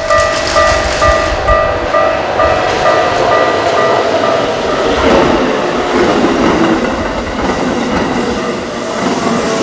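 Keikyu Main Line train passing over a level crossing at high speed, wheels clattering rhythmically on the rails, with a tone falling in pitch around the middle. The crossing's electronic warning bell rings about twice a second at first and is drowned out by the train after a few seconds.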